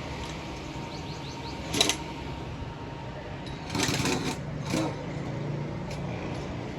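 Short metallic clinks and rattles, as of tools or metal parts being handled: one about two seconds in and a few more around four to five seconds, over a faint steady hum.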